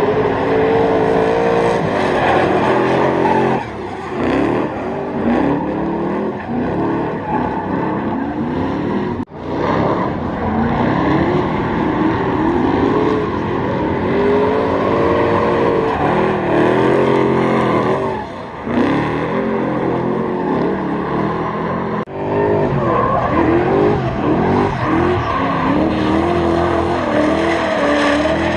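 Car engine revving hard, rising and falling in pitch again and again, with tyre squeal as the car is driven sideways in a drift. The sound drops out abruptly twice, at about nine and twenty-two seconds.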